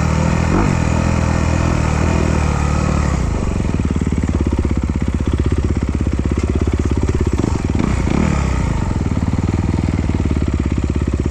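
Trail motorcycle engine running under throttle for about three seconds, then dropping to a slower, even, low-rev pulsing. There are brief revs near the start and about eight seconds in.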